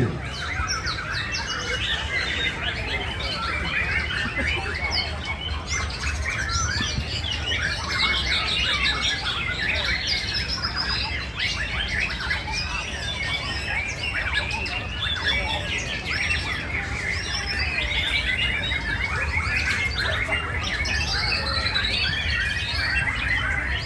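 Many caged white-rumped shamas (murai batu) singing at once: a dense, overlapping chorus of whistles and chirps over a steady low rumble.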